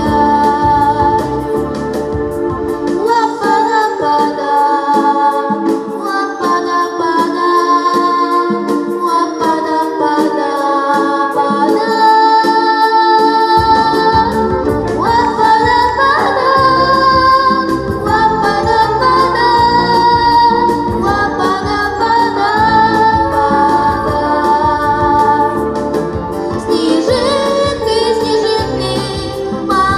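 A song sung with instrumental backing. The bass drops out for the first part and comes back in suddenly about halfway through.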